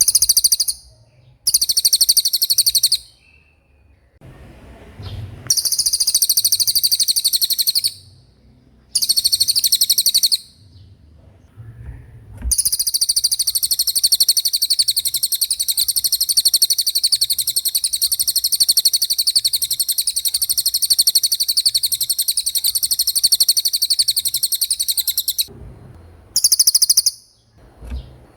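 Cililin songbird singing a fast, high-pitched rolling trill. It comes in separate phrases of one to three seconds, then runs on unbroken for about thirteen seconds before a last short phrase near the end.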